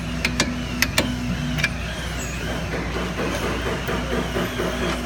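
A few sharp metallic clicks and knocks in the first couple of seconds, tools working on a car's front brake, over a steady low hum of a running engine or workshop machinery.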